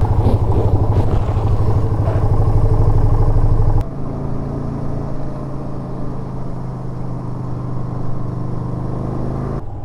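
Yamaha SRV250 V-twin engine running under way, a strong pulsing note for the first few seconds. About four seconds in it drops suddenly to a quieter, steadier note that runs on.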